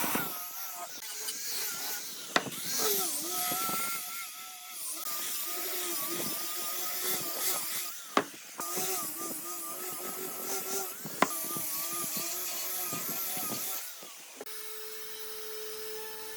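Electric power tool motor running on wood, its pitch wavering as the load changes, with three sharp clicks spread through. About fourteen seconds in it gives way to a steadier, single-pitched tone.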